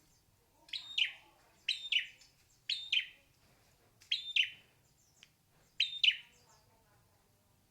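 Hair-crested drongo calling: five short two-part calls, one every second or so, each a quick high note followed by a louder falling note.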